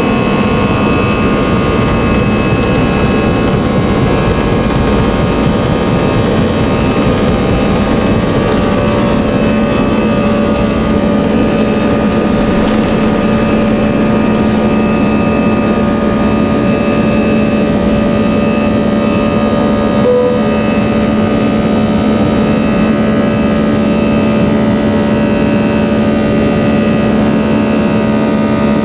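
Jet airliner engines at take-off thrust: a loud, steady roar with several steady whining tones on top. A low hum strengthens about halfway through.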